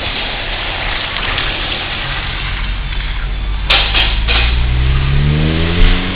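Honda Fit Sport's 1.5-litre four-cylinder engine, breathing through an aftermarket axle-back exhaust, driving along over steady road noise. About two thirds of the way through there are two sharp clicks, then the engine revs up in a rising drone, a smooth sound.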